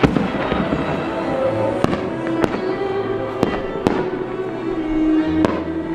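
Aerial fireworks going off, about six sharp reports, the loudest right at the start and the rest spaced a second or so apart, over music playing steadily.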